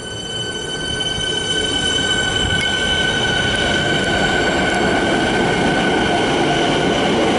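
Train running along the track and growing steadily louder, with a steady high-pitched squeal from the wheels.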